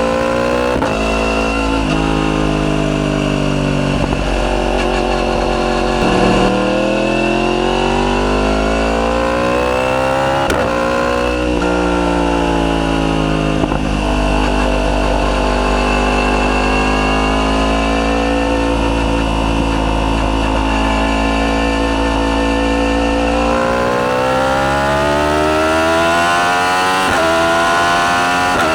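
Yamaha YZF-R1's crossplane inline-four engine through an Akrapovic full titanium decat exhaust, accelerating under load. Its pitch climbs and drops back at gear changes about 6 and 11 seconds in, then rises slowly for a long stretch and climbs again near the end.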